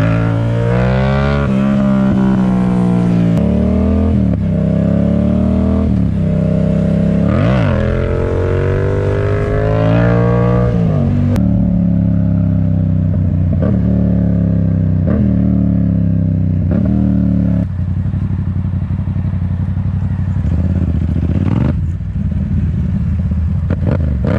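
Yamaha MT-07's parallel-twin engine accelerating through the gears, its pitch climbing and then dropping at each upshift. About eighteen seconds in it settles into a lower, steadier drone.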